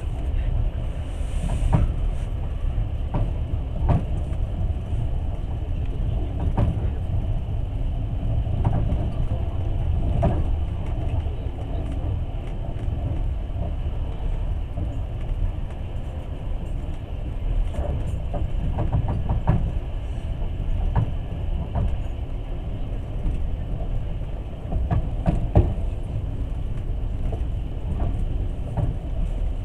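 Passenger train running at speed, heard from inside the carriage: a steady low rumble of wheels on rails with scattered sharp knocks and clicks.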